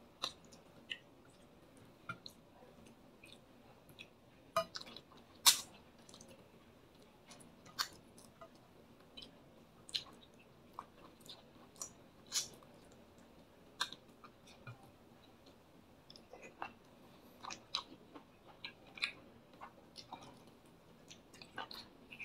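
A man chewing fried fish and rice eaten by hand, with irregular sharp wet mouth clicks. The loudest click comes about five and a half seconds in.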